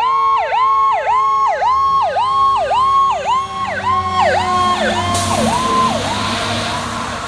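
Fire engine responding with its electronic siren in a fast yelp, about two sweeps a second, over a lower siren tone that slowly slides down in pitch. The siren fades out about six seconds in as a rush of engine and road noise rises.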